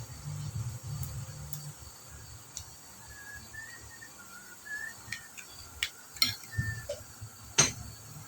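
Eating at a meal: low chewing noise, then a few faint chirps and a series of sharp clicks and clinks like cutlery or fingers on a plate, the loudest click near the end.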